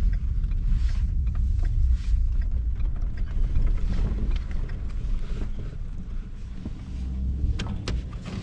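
Pickup truck driving off-road over rough ground: a low rumble with scattered knocks and rattles, easing off toward the end.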